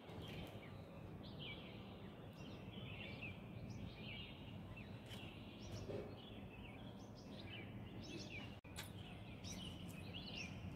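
Faint small birds chirping repeatedly in the background over a low, steady outdoor noise.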